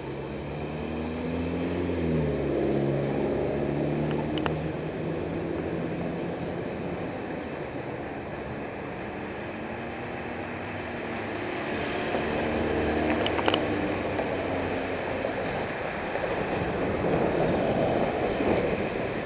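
Motor vehicles passing on the road. One goes by about two seconds in, its engine note dropping as it passes, and another around twelve to fifteen seconds in, over steady road noise. There are a couple of sharp clicks, one about four seconds in and one about thirteen seconds in.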